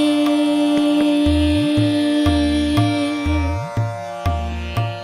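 Indian devotional song: one long held note that ends about three and a half seconds in, over a steady tabla beat whose bass strokes sometimes glide upward, with plucked strings.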